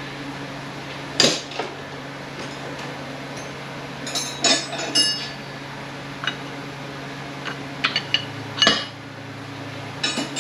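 Metal hand tools and transmission parts clinking and knocking against each other during disassembly, a dozen or so separate knocks, some of them ringing briefly. A steady low hum runs underneath.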